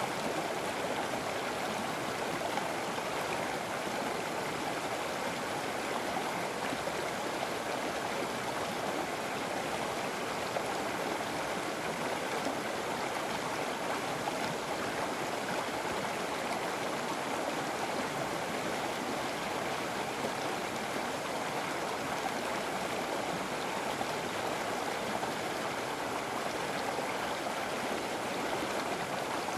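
River water flowing over rocks: a steady rushing and babbling with no breaks.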